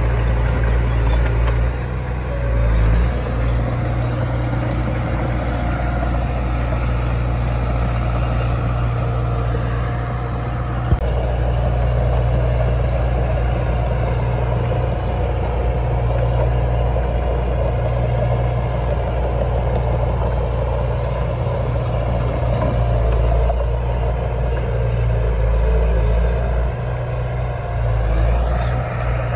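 Heavy diesel engine of earthmoving machinery running steadily with a deep low hum, with a brief sharp click about eleven seconds in.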